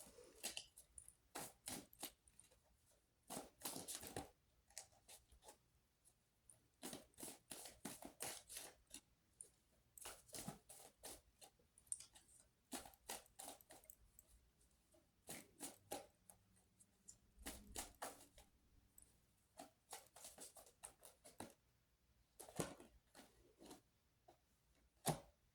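Tarot cards being shuffled and handled to draw a clarifying card: a string of short, irregular rustles and flicks in clusters, with brief pauses between them.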